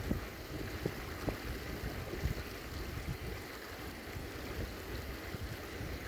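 Wind buffeting the microphone: a low, uneven rumble with gusty bumps over a steady rushing hiss.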